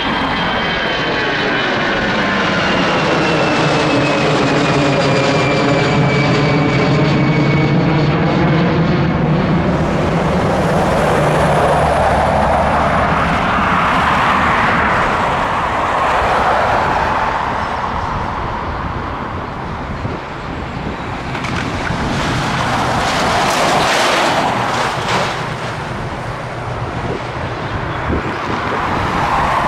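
Boeing 757 jet airliner's engines running loud as it passes, a high whine falling in pitch over the first several seconds over a steady low hum and sweeping jet noise.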